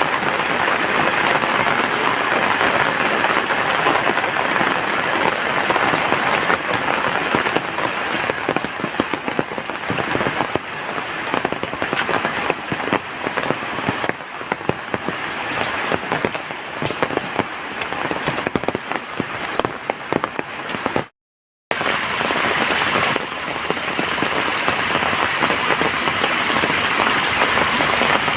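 Heavy rain falling steadily, a dense hiss full of individual drops striking surfaces. The sound cuts out completely for about half a second about three quarters of the way through, then the rain resumes.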